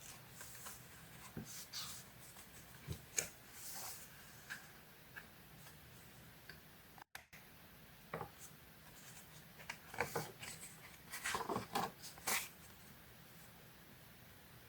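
Paper being handled by hands: soft rustles, slides and light taps come in scattered bursts. There is a brief dropout about halfway, and a busier run of rustling follows in the second half.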